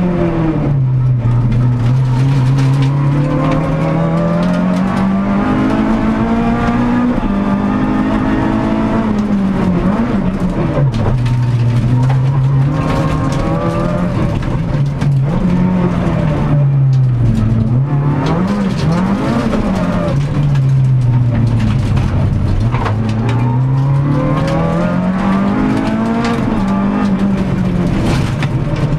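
Renault Clio Sport rally car's four-cylinder engine heard from inside the cabin at stage pace, loud throughout. The revs climb steadily, then fall sharply several times as the car lifts off and shifts, with quick up-and-down blips mid-way, over constant road and tyre noise.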